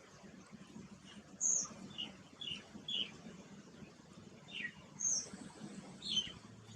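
Small garden birds chirping: several short, high chirps spaced irregularly.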